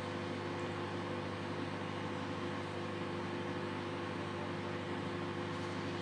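Panasonic microwave oven running on medium power, a steady low electrical hum with the fan's whir that does not change.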